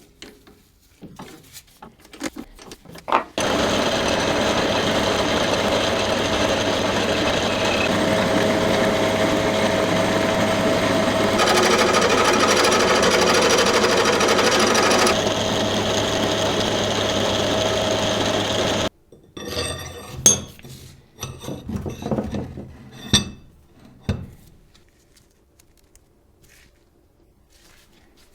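A power tool runs steadily for about fifteen seconds, starting and cutting off abruptly. A few scattered clicks and knocks come before and after it.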